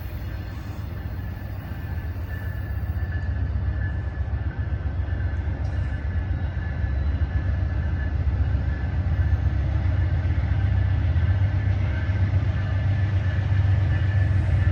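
Amtrak Coast Starlight passenger train led by an ALC-42 Siemens Charger diesel-electric locomotive: a low rumble of engine and rolling wheels that grows steadily louder as the train comes in, with a thin steady high tone above it.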